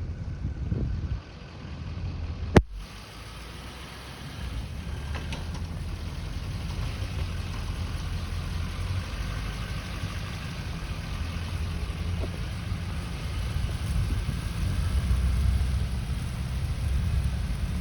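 Low, rumbling outdoor street ambience in a blizzard, with a single sharp click about two and a half seconds in.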